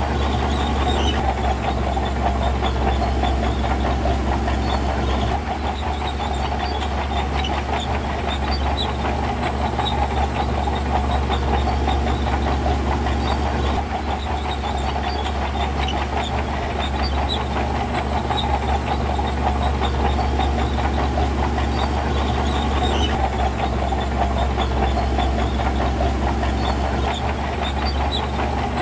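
Diesel engine of heavy earthmoving equipment running steadily at working load, with a constant low drone and a dense, fine metallic rattle over it.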